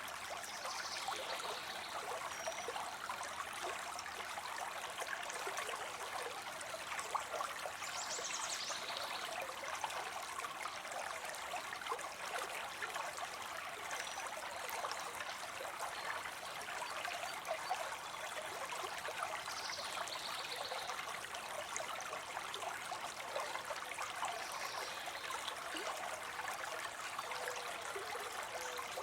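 Water spilling steadily into a pond: a continuous splashing trickle with many small droplet splashes. A few faint high chirps come every several seconds.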